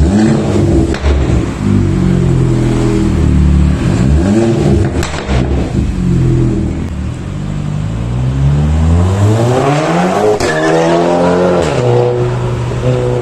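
Volkswagen Scirocco R's turbocharged 2.0-litre four-cylinder being revved through a stainless-steel turbo-back racing exhaust. There is a short blip about four seconds in, then a long climb in revs, a drop, and a steadier hold near the end.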